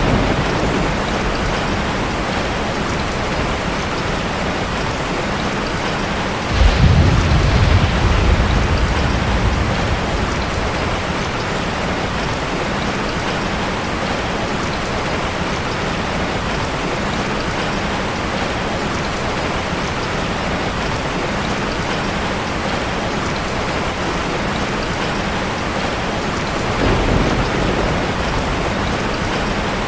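Heavy rain falling steadily. A low rumble of thunder breaks in suddenly about six seconds in and dies away over a few seconds, and a fainter rumble comes near the end.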